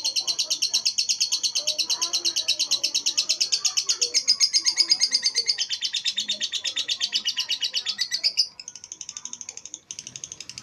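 Lovebird singing a long, loud, unbroken trill of rapid chirps, about ten a second, that drops suddenly in level near the end, breaks off briefly, then goes on more quietly.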